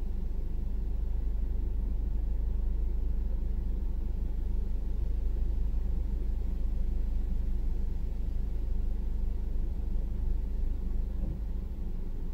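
Vehicle engine idling, a steady low rumble heard from inside the cabin.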